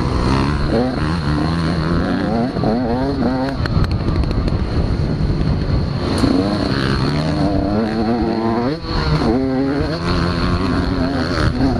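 Several motocross bikes' engines revving hard on track, overlapping, their pitch climbing and dropping again and again as riders work the throttle and shift gears.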